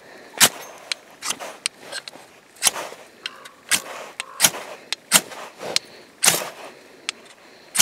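Ferro rod struck repeatedly, about ten short, sharp scrapes spaced roughly half a second to a second apart, throwing sparks onto basswood shavings to light a fire.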